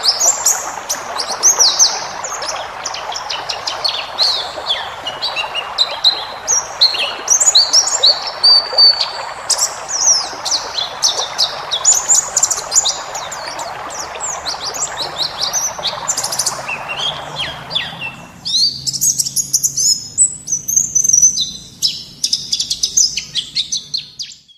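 Wild white-eyes (pleci) singing a dense, fast run of high twittering chirps and trills. A steady background hiss under the song cuts off about three quarters of the way through, leaving the birds alone.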